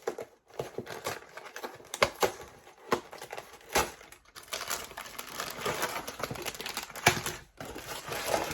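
Cardboard LEGO set box being opened and emptied by hand: sharp snaps and clicks of the flaps, then a dense crinkling rustle of the plastic parts bags inside.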